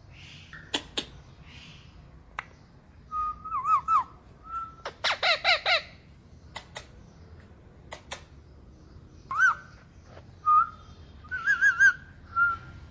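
Indian ringneck parakeet giving short wavering whistles and warbles, with a quick string of harsh chirps about five seconds in. Several sharp clicks sound between the calls.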